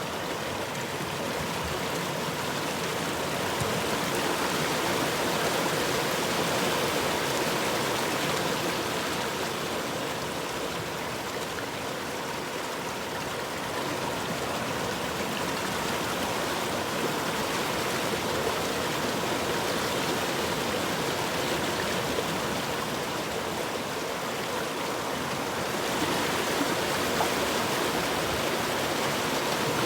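Flowing river water: a steady rushing that swells and eases a little in level.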